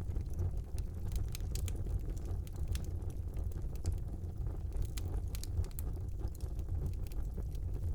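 Fire burning in a fireplace: a steady low rumble of flames with frequent, irregular small crackles and pops.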